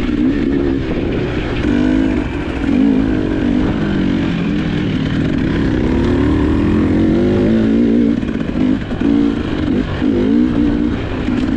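GasGas EC300 two-stroke enduro dirt bike engine being ridden, its revs rising and falling with the throttle, and choppier on-off throttle changes near the end.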